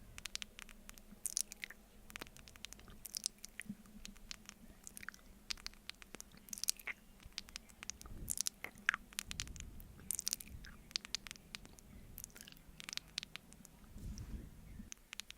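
Mouth sounds of eating honey off a spoon: many quick, irregular clicks and smacks of lips and tongue, with a few low thumps of chewing about halfway through and near the end.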